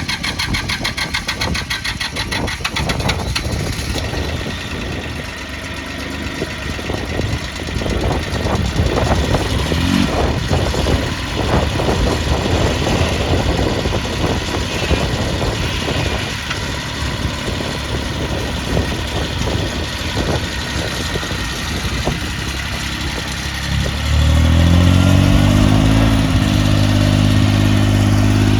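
International 234 compact tractor's diesel engine running at a low speed, then revved up near the end and held at a higher, steady speed.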